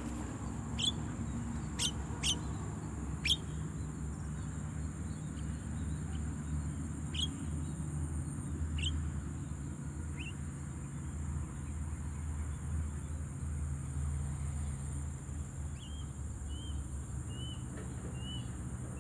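Bird calls: single sharp notes, each a quick downward sweep, about seven of them in the first ten seconds, then a quick run of short chirps near the end. Under them is a steady high insect drone and a low rumble.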